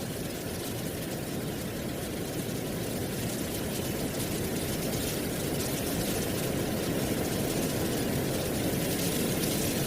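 Wind blowing through dry autumn leaves: a steady rushing with a fine crackling rustle, slowly growing louder.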